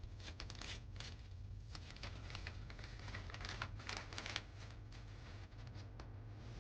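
Irregular rustling, crinkling and small clicks over a steady low hum.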